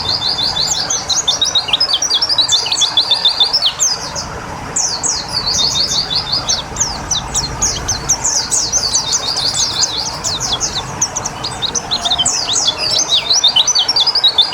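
White-eye (pleci) songbird singing, long runs of rapid high chirps with only a brief pause about four seconds in.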